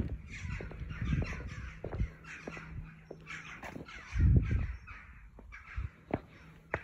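Birds giving repeated short, harsh calls over footsteps on stone paving, with a loud low rumble about four seconds in.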